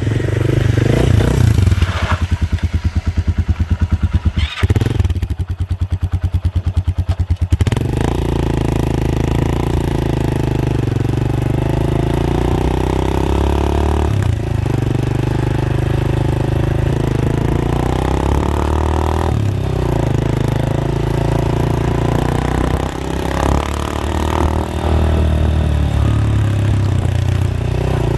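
Motorcycle running through an Akrapovic aftermarket exhaust with the dB killer fitted, ridden on the road. It revs up, then runs with distinct, separate exhaust pulses off the throttle for a few seconds, then pulls steadily, with the note dropping and climbing again at gear changes about 14, 19 and 23 seconds in.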